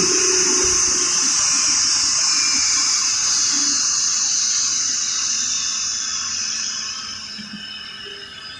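Jet engines of an Airbus A330-900neo, a steady loud rushing hiss that fades away over the last two seconds or so.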